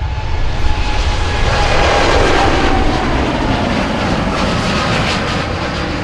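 Airliner's engines passing close by, the noise swelling to its loudest about two seconds in and then easing off, with whining tones that slide down in pitch.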